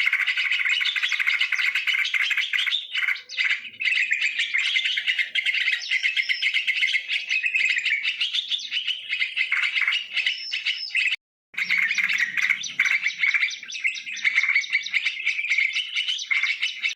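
Yellow-vented bulbuls chattering and chirping in a dense, unbroken stream, a recording used to lure the birds in. The sound cuts out completely for a moment about eleven seconds in, then carries on.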